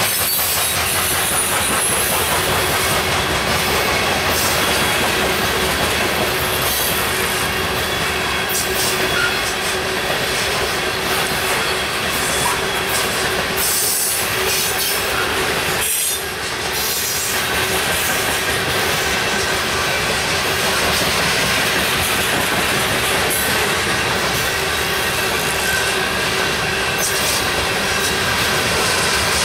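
Loaded or empty coal gondolas of a Union Pacific coal train rolling steadily past: steel wheels on rail with clicking over rail joints and a thin, steady wheel squeal. The noise dips briefly about halfway through.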